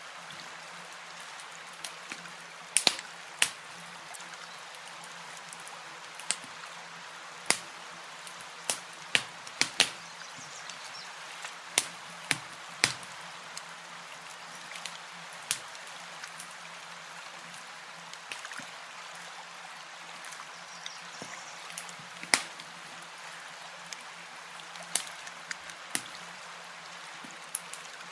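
Campfire crackling: irregular sharp pops and snaps, some loud, over a soft steady hiss.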